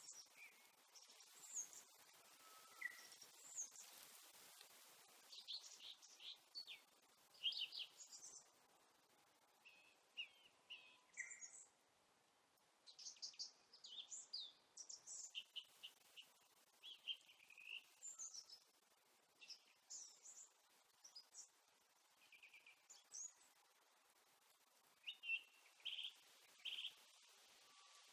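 Small birds chirping: many short, high chirps and trills, scattered irregularly over a faint steady hiss.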